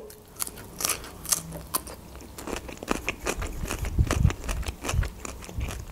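Close-miked biting and chewing of a crisp fresh cucumber stick: a run of short, irregular crunches.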